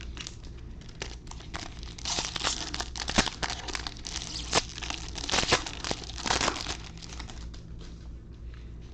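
Foil wrapper of a trading-card pack crinkling and tearing in irregular crackly spurts, heaviest in the middle few seconds.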